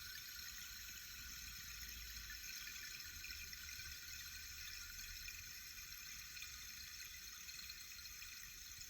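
Mahogany (sipo) rain-stick column with natural grains trickling down inside it and striking the internal obstacles, making a steady, even, rain-like hiss.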